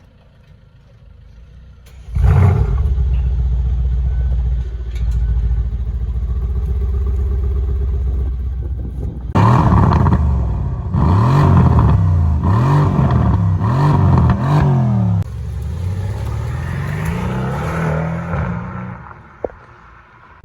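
Mercedes-AMG C63 W205's 4.0-litre twin-turbo V8 starting with a sudden loud flare about two seconds in and settling to a steady idle. It is then revved in about five quick blips, followed by two slower, softer revs before dropping back.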